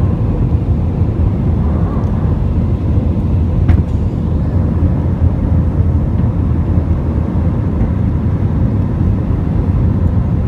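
Steady low rumble of jet engine and airflow noise inside the cabin of an Airbus A320 climbing out shortly after takeoff, with one brief click about four seconds in.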